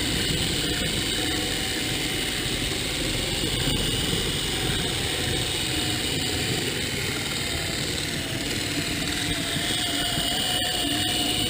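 HO scale MDC Roundhouse Shay model locomotive running, its motor and geared drive making a loud steady whine that wavers slightly in pitch. It stays loud even though the gears have been greased again and again.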